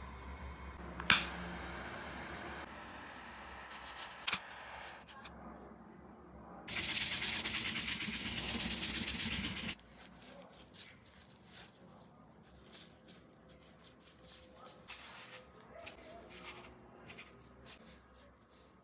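Cardboard craft work: a sharp click about a second in, then a steady aerosol spray-can hiss lasting about three seconds, followed by light scattered clicks and rustles of handling.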